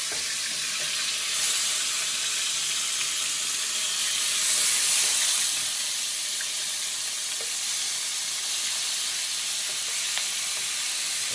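Chicken back pieces sizzling in hot corn oil as they are scraped from a steel bowl into a frying pan: a steady frying hiss that swells briefly about halfway through.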